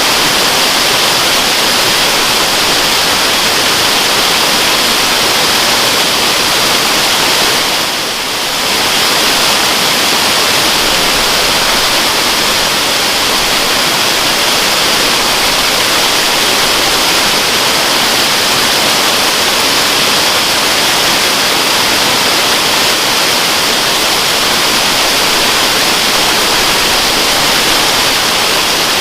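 Waterfall: a steady, dense rush of falling water, with a brief dip in level about eight seconds in.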